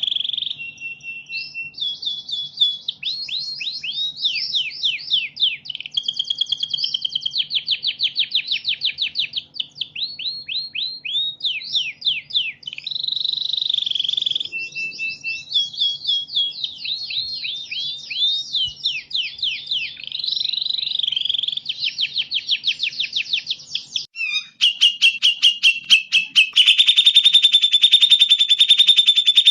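Recorded songbird song of the kind played to train caged birds: rapid runs of high, down-slurred whistled notes, changing phrase every second or two. Near the end it switches to a continuous, buzzy high trill.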